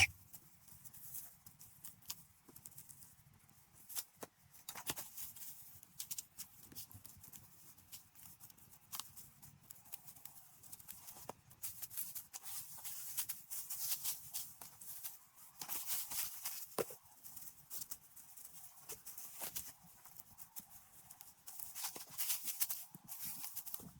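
Scattered knocks and clicks at an irregular pace, with several stretches of rustling in between.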